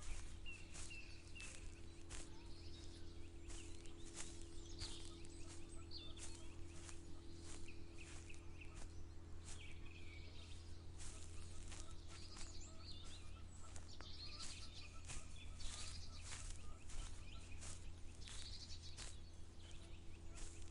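Footsteps of a person walking through a field, about two steps a second, with small birds chirping and calling. A steady low hum runs underneath.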